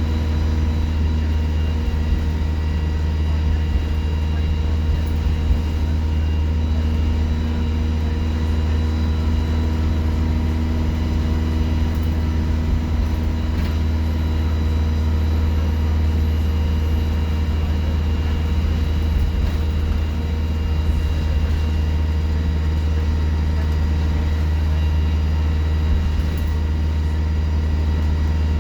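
Alexander Dennis Enviro 200 bus engine running steadily: a deep, unchanging drone with a steady high turbo whistle above it.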